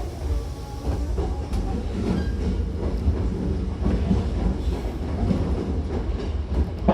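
Hankyu Takarazuka Line train running, heard from inside the car: a steady low rumble of wheels on rail, with scattered clacks and faint squeals. A sharp click comes at the very end.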